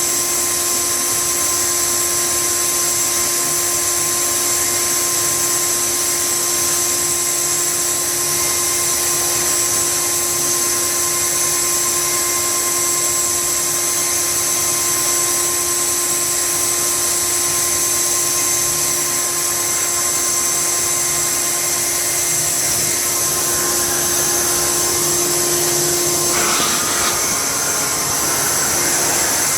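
Electric blower motor running steadily, with a high whine and rushing air, used as a makeshift hair dryer. About 26 seconds in, its tone shifts briefly.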